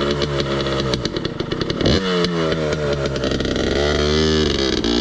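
Dirt bike engine running steadily, then revved up and down several times, its pitch rising and falling, as the bike labours to get up a muddy hill without enough momentum.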